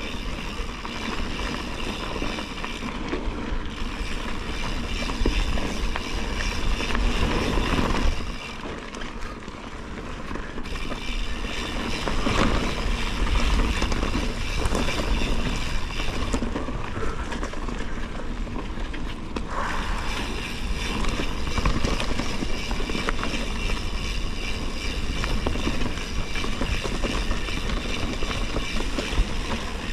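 Bicycle ridden over a rough forest trail: continuous tyre rumble with rattling from the bike, rising and falling in loudness.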